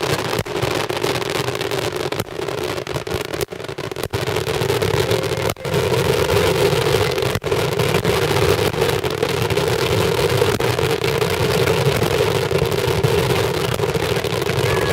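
Daytime fireworks barrage: rapid bangs fired so densely that they merge into one continuous, loud din, growing louder and steadier about five seconds in.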